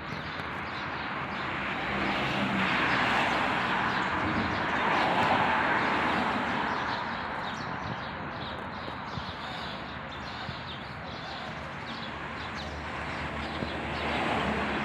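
Outdoor background noise that swells and fades, loudest a few seconds in and again near the end, with faint short chirps over it.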